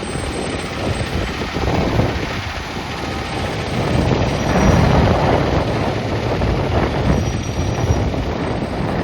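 Fire engine's diesel engine running with an uneven low rumble, swelling louder around the middle.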